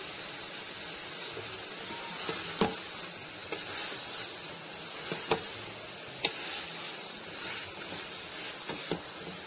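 Chicken pieces and tomatoes sizzling in oil in a pot while a wooden spatula stirs them, knocking sharply against the pot about five times.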